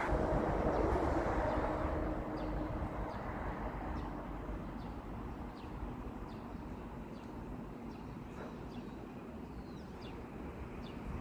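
A small bird calling repeatedly with short, high, downward-slurred chirps, about one to two a second, over a low wind rumble on the microphone. A low hum fades away over the first few seconds.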